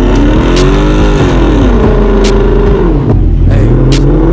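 A car engine revving hard, its pitch climbing and falling several times, with three short cracks over it.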